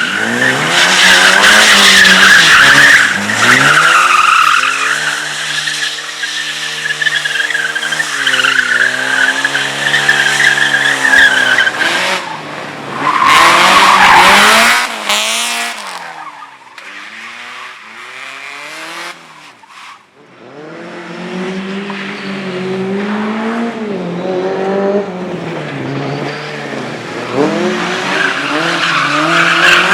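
Slalom race car engines revving hard, the note climbing and dropping again and again through gear changes and lifts, with tyres squealing in the turns. The sound eases off for a few seconds past the middle, then builds again as a car drives hard once more.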